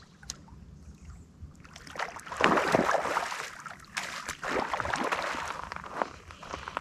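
Water splashing and sloshing in two surges, starting about two and four seconds in, with a few sharp clicks.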